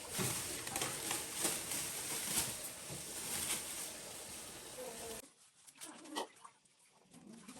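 Oil sizzling and crackling in a frying pan. It cuts off abruptly about five seconds in, leaving a much quieter background with a few faint animal calls.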